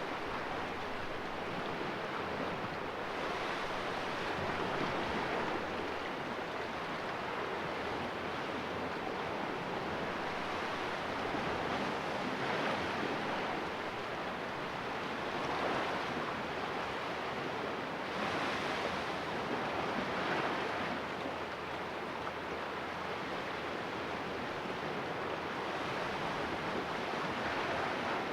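Sea waves washing and splashing against the rocks of a small cove, a steady wash of surf that swells every few seconds.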